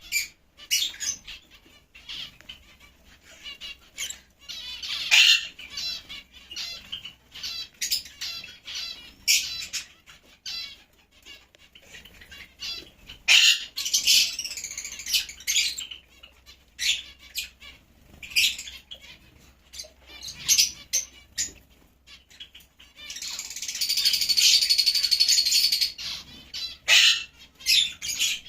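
Lovebirds calling in short, sharp chirps and squawks, with a few seconds of dense, rapid chattering late on.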